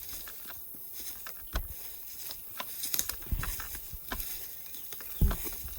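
Footsteps through woodland brush: irregular crackling of twigs and dry growth underfoot, with heavier footfalls every couple of seconds.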